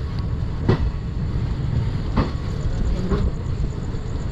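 Millennium Express passenger coach running on the track: a steady low rumble broken by three sharp clacks from the wheels on the rails.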